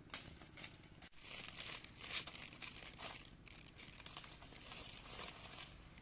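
Crinkling and rustling of material being handled, in irregular bursts with a few sharper crackles.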